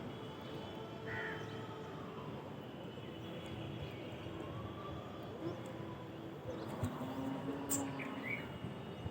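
Morning outdoor ambience: a steady background hum with short bird calls, one about a second in and a couple more near the end.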